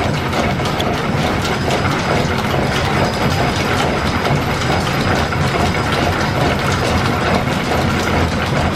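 Belt-driven machine tool in a line-shaft machine shop running steadily under a cut, a loud, even mechanical clatter of gears and belting.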